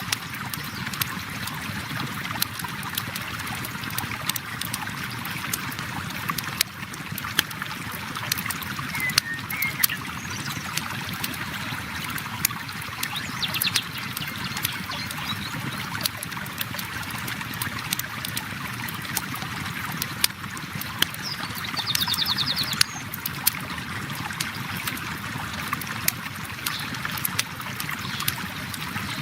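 River water flowing steadily, with a campfire crackling in frequent sharp pops. A bird gives a few short, rapid trills about halfway through and again later on.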